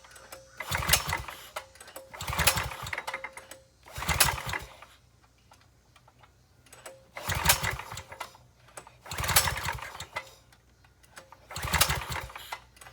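Predator 301cc single-cylinder engine being pull-started with its recoil starter: about six pulls, each a second-long burst of cranking, with a pause about midway, and the engine never catches. It cranks against noticeably heavy compression.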